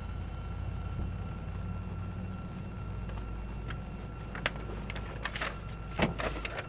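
Steady low rumble of an idling vehicle engine, with a scatter of sharp clicks and knocks in the last two seconds.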